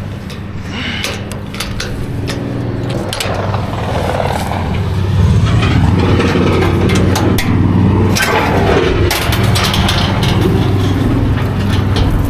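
Vehicle engine running steadily, with scattered clanks and rattles; it gets louder about five seconds in.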